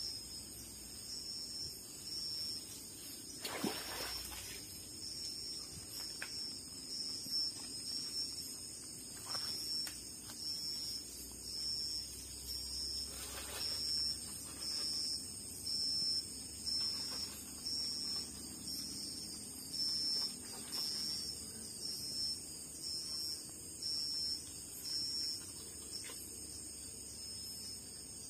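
Forest insects chirping in a steady, even pulse about once a second over a continuous high-pitched drone. A few short louder noises break in, the first about four seconds in.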